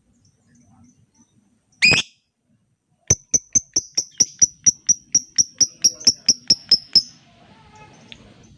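A lovebird gives one sharp screech, then a fast, even run of clipped high notes, about six a second, lasting about four seconds: the long chattering trill that keepers call ngekek.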